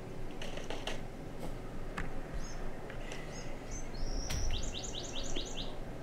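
Wild birds chirping: several short high chirps, then a held whistle about four seconds in followed by a quick run of about six repeated notes. A few sharp knocks sound in the first two seconds.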